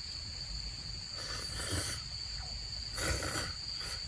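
Crickets chirping steadily in the background, with two short slurps of hot noodles, about a second in and again about three seconds in.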